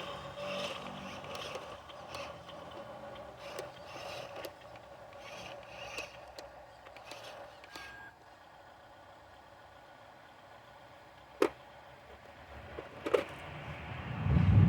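Dump truck running, with rattling and scraping and two sharp clicks past the middle; the low engine sound swells louder near the end.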